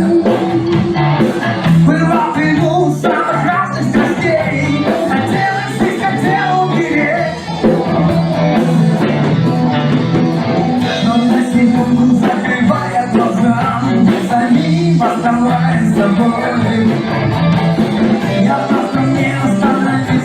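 A rock band playing a song with sung vocals over guitar and a steady bass line.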